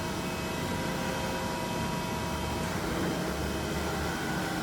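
TOS grinder running steadily: an even hum of its hydraulics and spindle with several constant tones, and a low rumble that swells for a couple of seconds in the middle.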